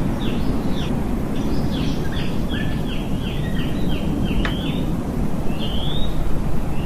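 Waterfall rushing steadily, with a songbird singing over it: a quick run of short, falling chirps, then a few longer slurred whistles near the end.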